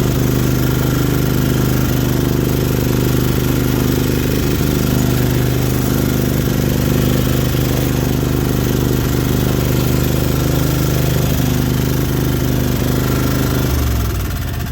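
Lawnmower engine running steadily; near the end its pitch drops as it slows down.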